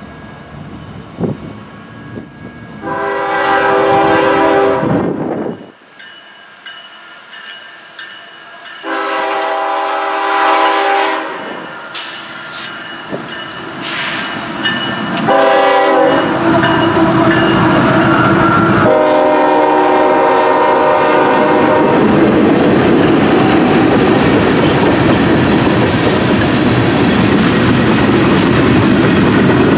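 CSX freight locomotive sounding its multi-chime air horn in the grade-crossing pattern: long, long, short, long. It is followed by the loud, steady rumble and clickety-clack of the train passing close by.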